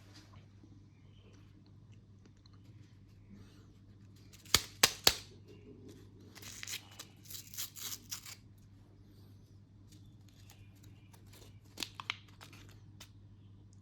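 A ration's plastic food packet being torn open: three sharp snaps about four and a half seconds in, then about two seconds of tearing and crinkling plastic, and two more clicks near the end.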